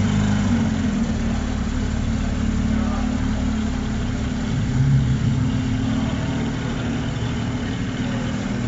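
Porsche 911 GT3's flat-six engine idling steadily, swelling briefly about halfway through.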